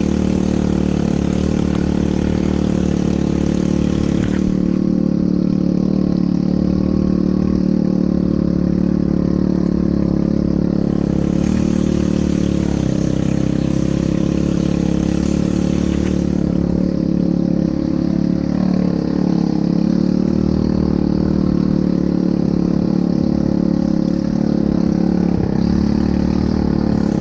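ATV engine running at a steady, unchanging pace throughout, with no revving up or down.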